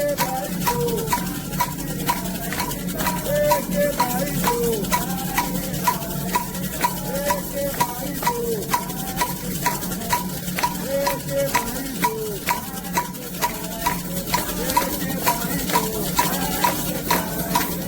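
Candomblé ritual music: drums and a ringing metal bell keep a steady beat of about three strokes a second, with voices singing a chant over it.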